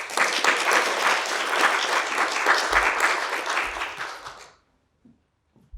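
Theatre audience applauding, a dense round of clapping that fades out about four and a half seconds in.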